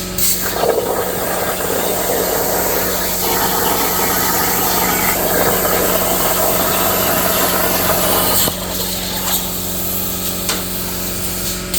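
Plasma cutter torch on a CNC plasma table cutting steel: a steady loud hiss over a constant electrical hum, with a few sharp clicks and a brief dip about eight and a half seconds in.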